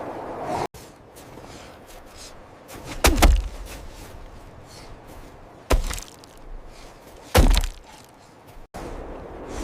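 Three heavy thuds, each sudden with a deep low end, a few seconds apart, over a faint background hiss; the sound cuts out abruptly twice.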